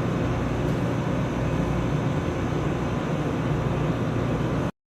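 A steady low rumble, heaviest in the bass, that cuts off suddenly near the end.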